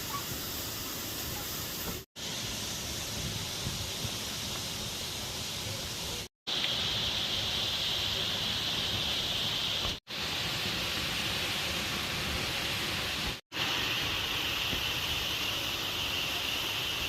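Steady rush of a waterfall, an even hiss-like noise of falling water that drops out for an instant four times at edits, the rush a little louder after the second break.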